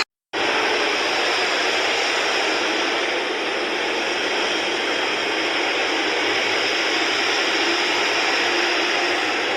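Steady rushing noise of a jet airliner's engines, starting abruptly after a split-second dropout and holding even throughout.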